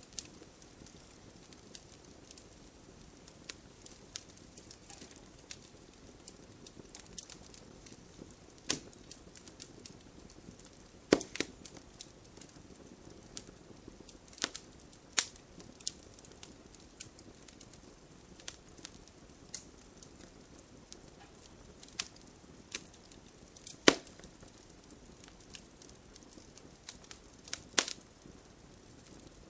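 Bonfire crackling, with irregular sharp pops from the burning wood, a few much louder than the rest. Underneath runs a faint steady hiss of light rain.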